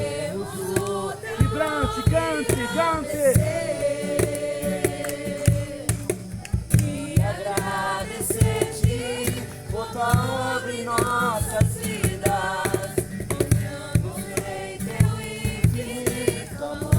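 A group singing a gospel worship song together, with instrumental accompaniment keeping a steady beat.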